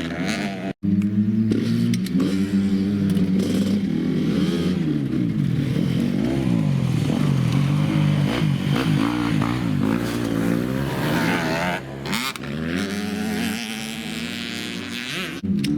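Dirt bike engines revving up and down as the bikes are ridden, the engine pitch rising and falling repeatedly. The sound breaks off abruptly a few times, about a second in, near twelve seconds and near the end.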